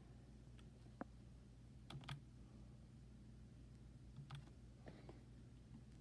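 Near silence: room tone with a low hum and a few faint, scattered clicks and taps.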